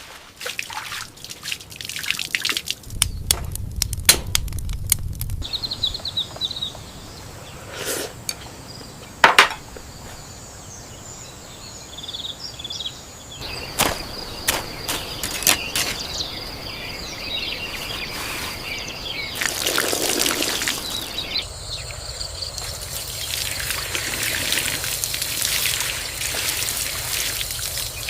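Water trickling and pouring, with bird calls and scattered knocks and clicks.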